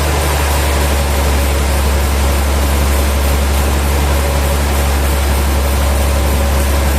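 Sawmill machinery running steadily: a loud, even, low drone with a constant hum that neither rises nor falls.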